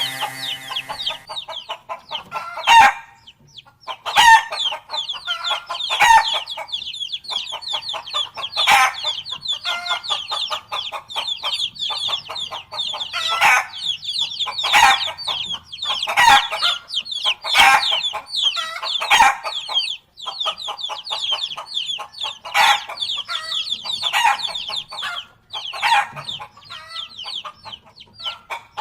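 A large flock of chickens clucking and calling all at once, a dense continuous din of overlapping calls with louder single calls standing out every second or two.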